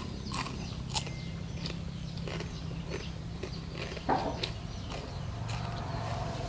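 Close-up mouth sounds of people chewing mouthfuls of raw fish wrapped in leaves: wet smacks and clicks scattered throughout, with a louder one about four seconds in, over a steady low hum.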